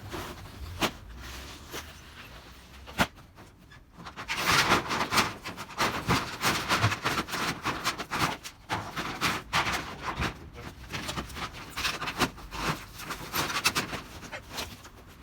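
Clattering and scraping of demolished corrugated iron roofing debris being handled, with two sharp knocks in the first three seconds, then a dense run of rattling, scraping and small impacts from about four seconds in.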